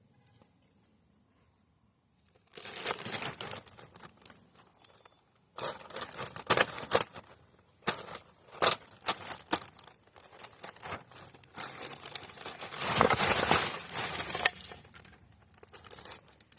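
Crinkling and rustling of something being handled, in irregular bursts with sharp clicks, starting about two and a half seconds in and peaking near the end.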